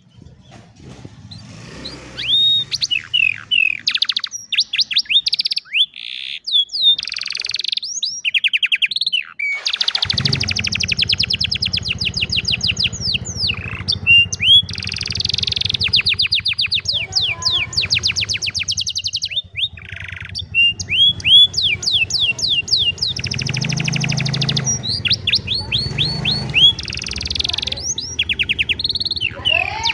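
Domestic canary singing a long song of rapid trills and quick rising and falling whistled sweeps, broken by short pauses.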